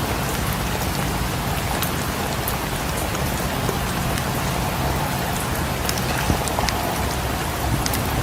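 Steady, dense rain falling, with scattered sharp ticks of single drops or crackles over a low, even rumble.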